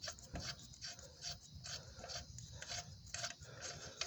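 A lug wrench working the wheel's lug nuts loose: a faint, rhythmic metallic rasping, about two to three strokes a second.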